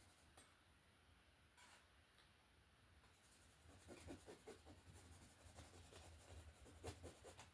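Faint scraping and tapping of a painting knife working oil paint, with short strokes gathering in the second half.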